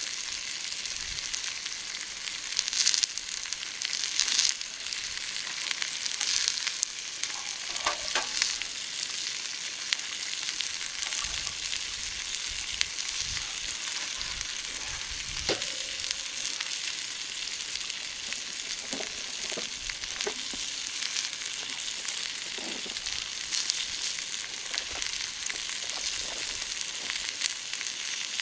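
Oil and food sizzling steadily in a small frying pan over a campfire, with scattered louder pops.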